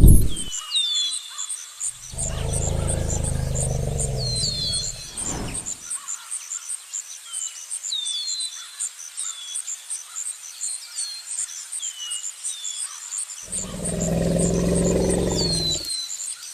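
Tiger growling twice, each a low, pulsing growl lasting about three seconds, the second about nine seconds after the first. Under it, insects chirp in a steady fast rhythm and a bird repeats short falling whistled calls.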